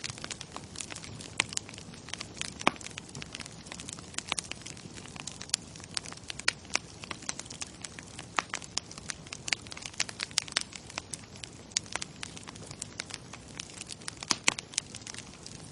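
Bonfire crackling: wood popping and snapping in quick irregular clicks, a few louder pops among them, over a low steady hiss of the burning fire.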